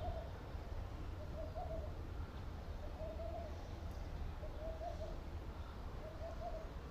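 A bird giving a short, low hooting call over and over, five times, about once every second and a half.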